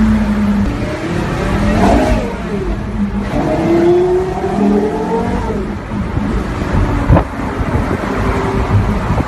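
Porsche Carrera GT's V10 engine revving, its pitch rising and falling several times, with one sharp crack about seven seconds in.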